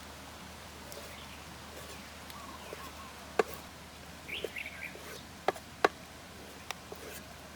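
Birds chirping in short calls over a steady background hiss, with a few sharp knocks, two of them close together just past the middle.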